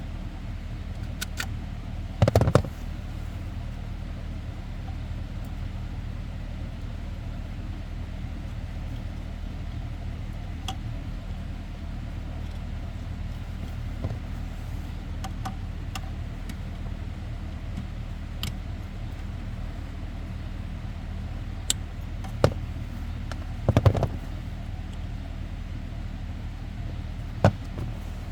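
Scattered clicks and knocks of hands and tools working at a wiring connector, the loudest clusters about two seconds in and near 24 seconds in, over a steady low hum.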